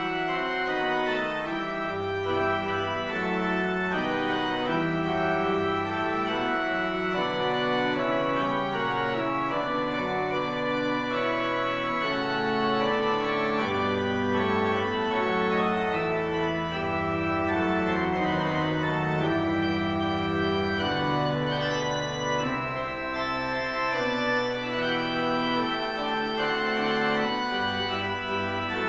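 Organ postlude: full held chords that change every second or two over sustained bass notes, at a steady level.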